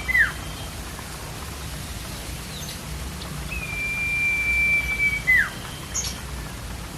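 Common iora (cipo) singing its long whistled call: a high note held steady for about two seconds that ends in a quick downward slur. The tail of one call falls right at the start and a full call comes about three and a half seconds in, over a steady hiss.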